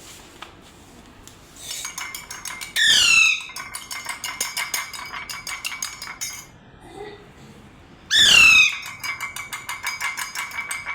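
Pet parrot giving two loud, harsh screeches, each falling in pitch, about three and eight seconds in. Between them come runs of fast, even ticking chatter at about ten ticks a second.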